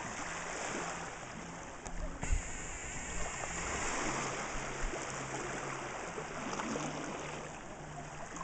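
Sea water splashing and lapping around a canoe, with a low thump about two seconds in.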